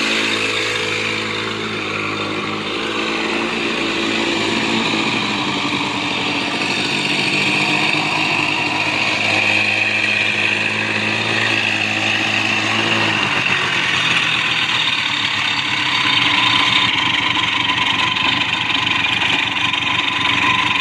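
Two-wheel-drive motorcycle's engine running. Its steady low note changes about 13 seconds in, and the engine keeps running.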